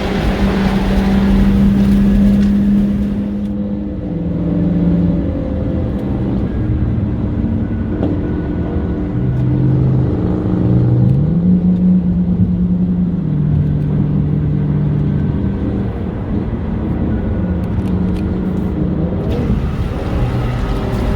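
2016 Ford Mustang GT's 5.0-litre V8 through a straight-pipe, X-pipe, resonator-delete exhaust, under way on the road. The engine note climbs, holds steady for a second or two, drops back, and climbs again several times as the throttle is opened and eased.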